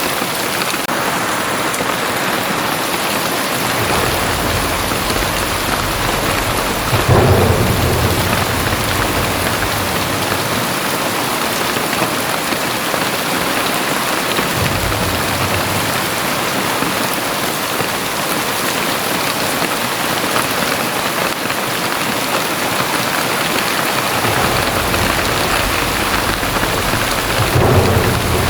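Very heavy rain pouring steadily, with deep rumbles swelling under it twice, about seven seconds in and again near the end.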